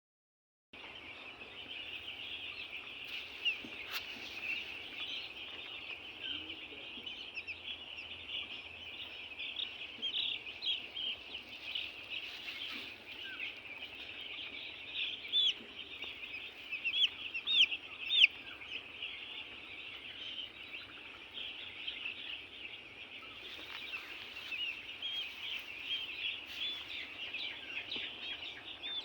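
A flock of chickens calling together in a continuous chorus of many overlapping high peeps and chirps, with a few louder calls standing out partway through.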